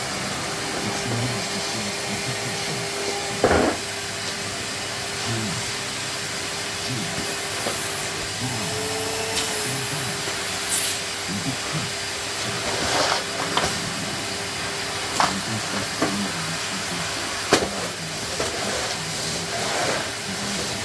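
Numatic George wet-and-dry vacuum cleaner running steadily with a constant motor hum, with a few sharp knocks from the nozzle or hose bumping against things.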